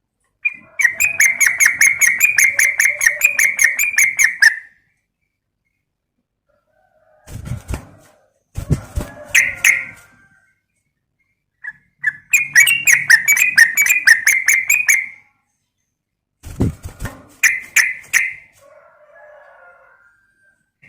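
Yellow-vented bulbul (trucukan) calling: two long runs of rapid chattering notes, with shorter bursts between them, a few of which come with low thumps.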